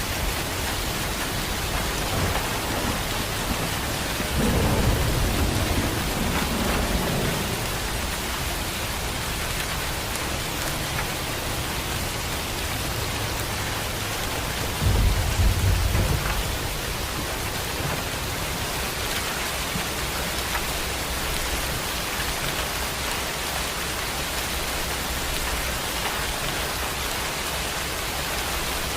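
Heavy rain falling steadily, with two rumbles of thunder: a longer roll about five seconds in and a shorter, louder one about fifteen seconds in.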